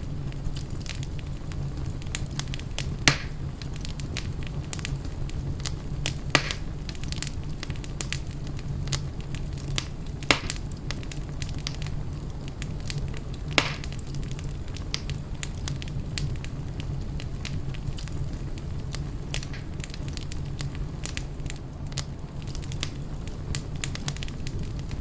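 Wood fire burning in a fireplace, crackling steadily over a low rumble. Four louder, sharper pops come in the first half, a few seconds apart.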